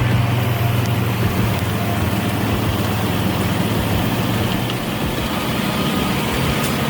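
Heavy truck's diesel engine running steadily with a low, even drone.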